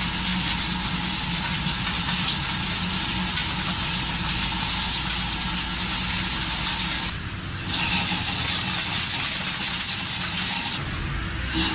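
Industrial CNC machine running, a loud steady hiss with a low hum underneath, changing abruptly twice near the middle and the end.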